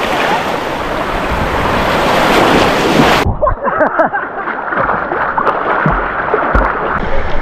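Rushing wind and water noise buffeting the microphone. About three seconds in it drops suddenly to a duller splashing hiss.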